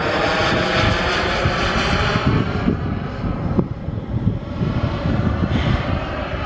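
Turbine engine of a large scale model jet (an Aermacchi MB-339 replica) in flight, a steady jet whine and rush that is loudest for the first two or three seconds, then fades as the plane moves away.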